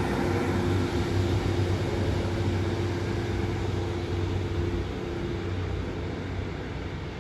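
A class 156 and class 150 diesel multiple unit pulling out: a steady diesel engine drone that slowly fades as the train moves away.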